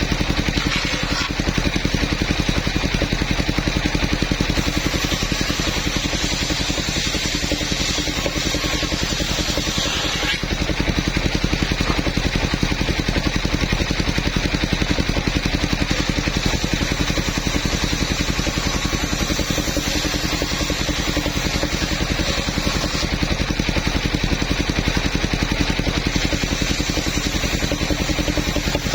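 The engine of a portable sawmill running steadily, a fast even beat of firing pulses. A brighter hiss joins it from about five to ten seconds in.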